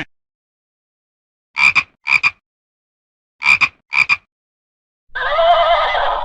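Frog croaking: two pairs of short croaks about two seconds apart. Near the end a longer animal call with a wavering pitch begins, and the tail of a cat's meow is heard at the very start.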